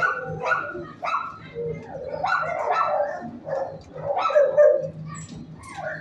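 Shelter dogs barking in their kennels: a string of sharp barks, about two a second at first, then crowding and overlapping through the middle.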